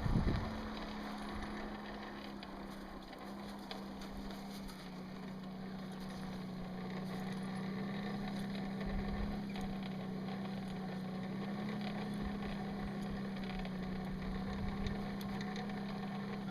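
A motor-driven machine running steadily: a constant low hum with an airy rush over it and a few faint ticks.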